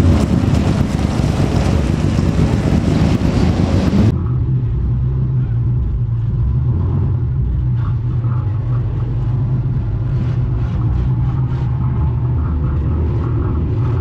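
Loud trackside noise for about four seconds, then the steady low drone of a Morris 1100's four-cylinder engine idling, heard from inside the stripped cabin.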